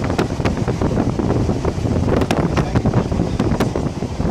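Wind rushing against the microphone of a moving steam-hauled passenger train, over the carriage's steady running rumble, with a scatter of sharp clicks, most in the middle.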